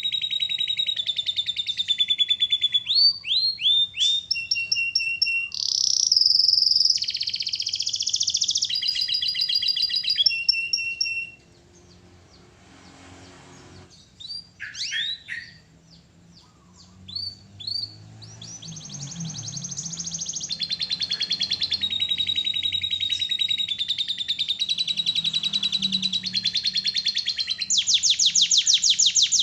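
Domestic canary singing a long, lively song of rapid trills and repeated rolling phrases. About eleven seconds in it stops for several seconds, giving only a few short chirps, then takes up the song again.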